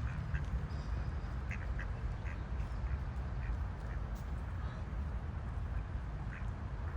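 Birds giving short calls, several times at irregular intervals, over a steady low rumble.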